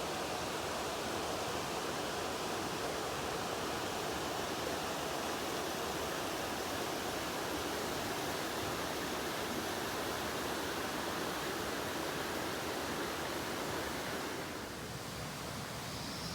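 Mountain stream rushing over rocks: a steady, even wash of flowing water that eases slightly near the end.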